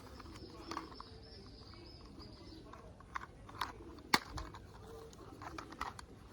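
Scattered light clicks and taps, with one sharp, louder click about four seconds in.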